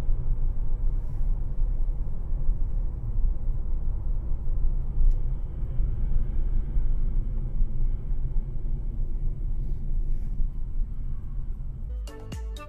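Steady low rumble of a vehicle on the move, as a dashcam picks it up, with a few faint clicks. Music with a beat comes in near the end.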